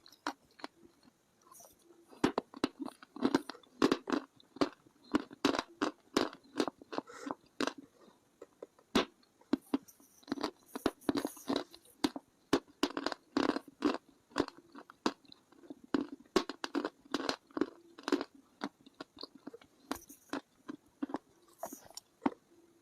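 A person biting and chewing hard, dry chalk-like sticks: a quick run of crisp crunches, several a second. The crunching starts sparse, thickens about two seconds in, and thins out near the end.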